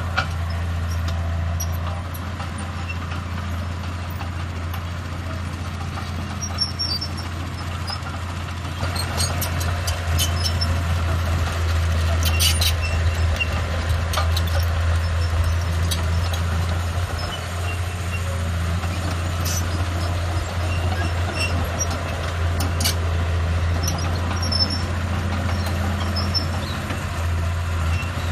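Heavy earthmoving machinery's diesel engine running steadily under work, getting louder about nine seconds in, with occasional short metallic clanks.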